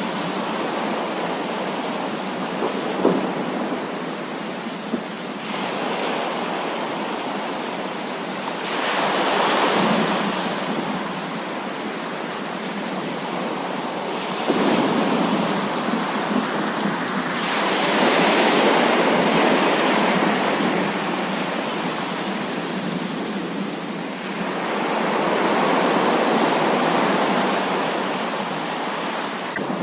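Heavy rain falling steadily, with thunder rolling in several long swells that rise and fade over a few seconds each.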